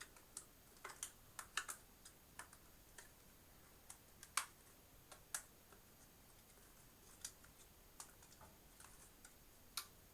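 Scattered light clicks and taps of a hard drive and plastic toolless drive caddy being handled and refitted, irregular, with the loudest click about four seconds in.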